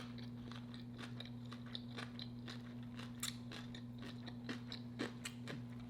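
A person chewing food close to the microphone, with many small, crisp clicks and crunches, over a steady low electrical hum.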